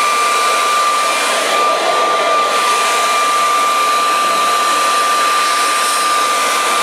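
Minuteman explosion-proof wet/dry vacuum cleaner (Hako model C88015-0, 2.3 hp motor) running at full speed: a steady rush of air with a high whine held at one pitch.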